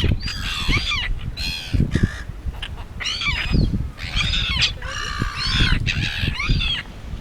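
A flock of seagulls calling over one another, repeated squawking cries, as the gulls chase after a chip.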